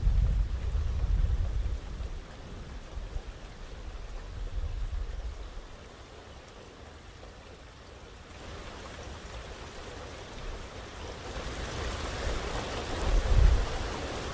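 Rain falling in a thunderstorm, a steady hiss that grows heavier over the last few seconds. A low rumble of thunder dies away in the first two seconds, and a short low rumble comes again about a second before the end.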